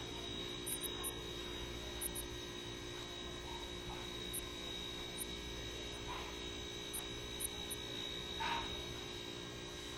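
Steady electrical hum made of a few level tones, with a faint short sound about eight and a half seconds in.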